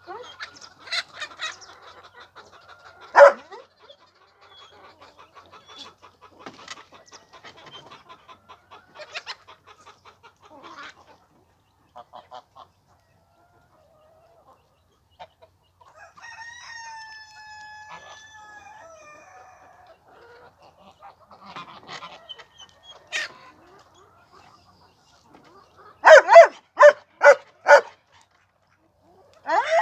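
Chickens clucking and calling, with a faint drawn-out call about midway and a quick run of about six loud calls near the end.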